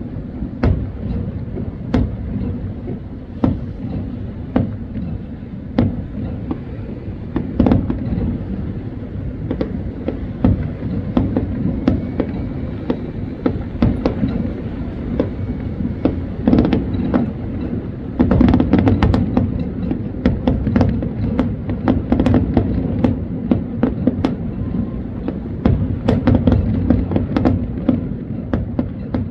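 Fireworks display: a continuous run of bangs in quick succession, thickest about two-thirds of the way through.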